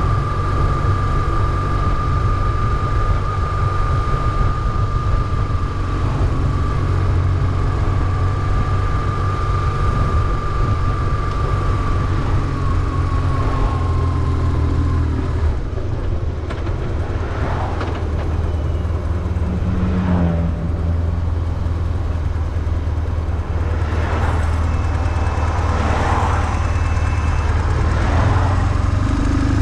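BMW R1150GS boxer twin engine running under way, a steady low drone. A steady high whine sits over it for the first half and then fades out.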